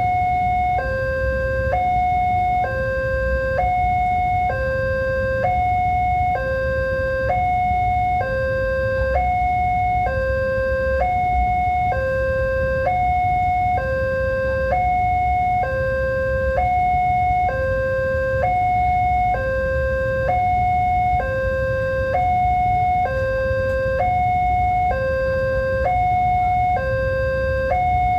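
Railroad level-crossing warning alarm sounding, two electronic tones alternating high and low, each held just under a second, over a steady low rumble.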